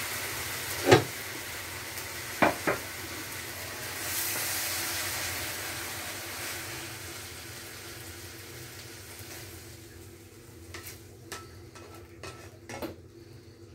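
Lamb and beansprout stir fry sizzling in a pan just taken off the gas, the sizzle dying away as the pan cools. The spatula knocks against the pan about a second in and twice more shortly after, and near the end there are light scrapes and taps as the food is scraped out onto a plate.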